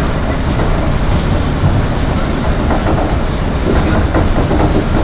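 Train running at speed, heard from on board: a steady, loud rumble of the wheels on the rails.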